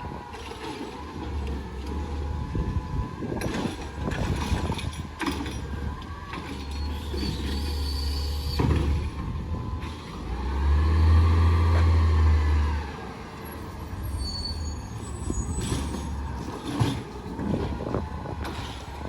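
Garbage truck's diesel engine running, revving up for about two seconds halfway through with a pitch that rises and falls back, with scattered knocks and clanks.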